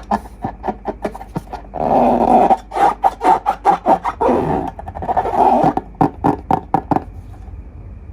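Slime being squeezed and kneaded by hand, squelching, with many quick crackling pops of trapped air and a few longer squishy bursts. It stops about a second before the end.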